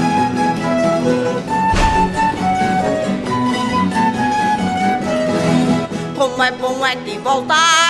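Folk string band playing an Azorean carnival bailinho tune: a bowed violin carries the melody over plucked strings in a steady rhythm.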